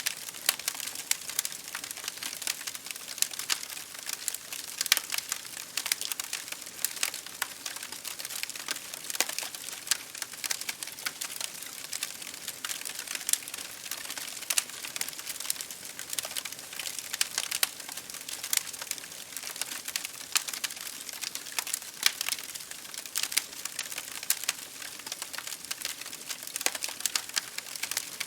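Wood fire crackling in a fireplace, with dense, irregular small pops and snaps, over the steady hiss of rain hitting a window pane.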